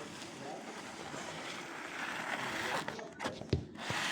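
A train passing: a steady rush of wheel and rail noise that swells about halfway through, with a few sharp knocks and a low thump near the end.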